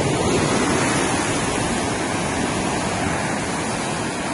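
Steady rush of ocean surf washing onto a beach, with some wind on the microphone.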